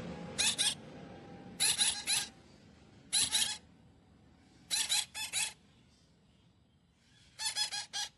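Parrot squawking in short, high, harsh calls, in five bursts of two to four calls each, roughly one burst every second and a half.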